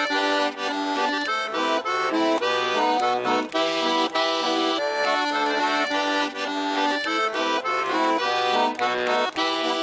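Accordion playing the tune of a Russian folk song on its own after the singing, quick runs of notes over held chords.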